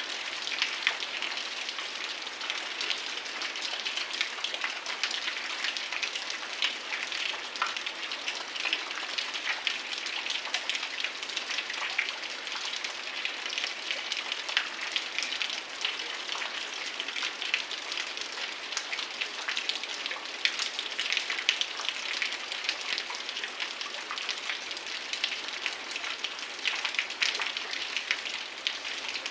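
Heavy rain falling steadily: a dense, even patter of countless drops striking surfaces.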